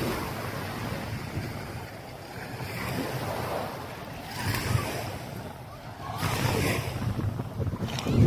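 Surf washing on a sandy beach, swelling a few times as waves come in, with wind gusting on the microphone.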